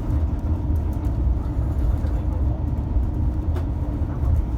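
Steady low rumble inside the cabin of an Airbus A350 rolling on the ground after landing, its Rolls-Royce Trent XWB engines running, with a few faint clicks.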